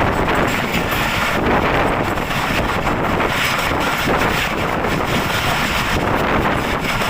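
Passenger express train passing through a station at speed: a steady loud rushing and rattling of wheels on the rails, with wind buffeting the microphone.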